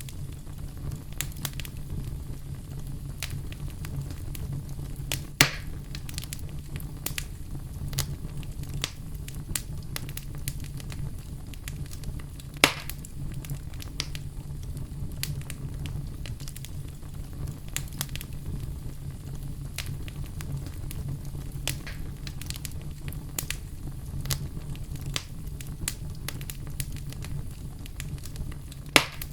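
Wood campfire burning: a steady low rumble under frequent crackling, with a few loud pops, one about five seconds in, one near the middle and one near the end.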